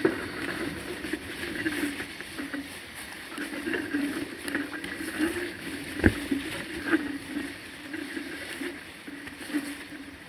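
River water rushing and gurgling over rocks at a cascade, steady throughout, with one sharp knock about six seconds in.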